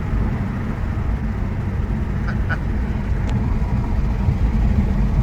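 2008 Nissan 350Z's 3.5-litre V6 running under way through its Nismo exhaust: a steady low drone that grows a little louder near the end.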